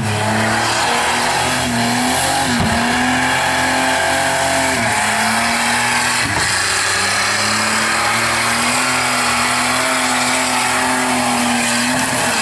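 Holden VR Commodore's 3.8-litre Buick V6 held at high revs during a burnout, the rear tyres spinning against the track under a loud hiss of tyre noise. The revs dip briefly and pick up again about three times in the first half, then hold steady.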